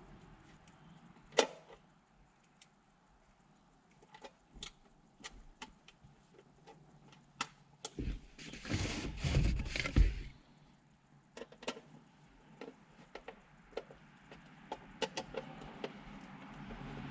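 Small metal parts being handled and fitted during a car radio install: scattered light clicks and knocks of the mounting brackets and screws. There is a sharper click about a second and a half in, and a denser rattling for about two seconds near the middle.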